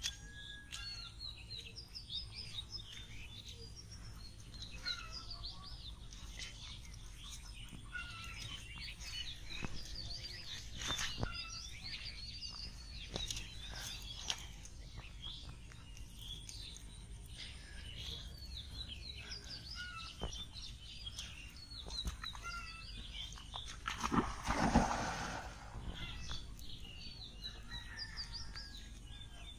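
Small birds chirping and twittering in many short calls throughout, with one louder noise lasting about a second around three-quarters of the way in.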